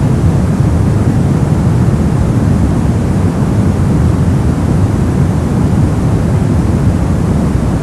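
Brown noise: a steady, even rumble with its energy in the low frequencies, falling off toward the highs, with no changes or events.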